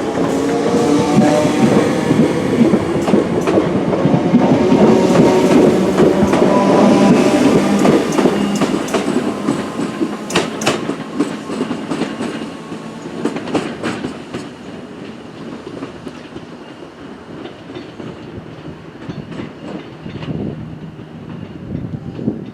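Electric multiple-unit train moving through the station: a loud rumble with a hum of several steady tones that fades after about eight seconds, with the wheels clicking over rail joints around ten to fourteen seconds in.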